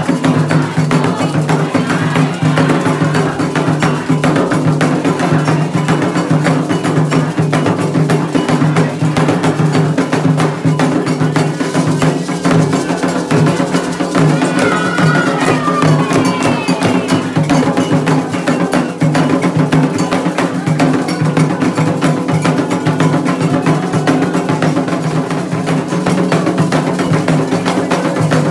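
Candomblé ritual drumming: atabaque hand drums with a metal bell (agogô) keeping a fast, continuous rhythm.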